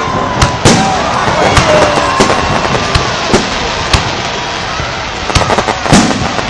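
Fireworks salute going off: a string of about ten sharp bangs at irregular intervals over a steady noisy background, with voices of onlookers.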